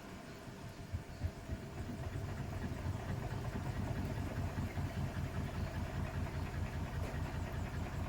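Bosch WAT286V0 washing machine's EcoSilence Drive motor turning the drum during a 90 °C boil-wash programme. It starts up about a second in, builds over the next two seconds, then runs at a steady level with a regular low pulsing hum.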